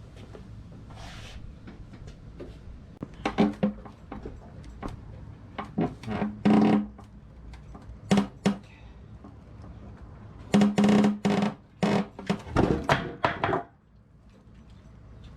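Metal clanks and thunks, some briefly ringing, in irregular clusters as a motorcycle is worked down off a small lift and off its stand.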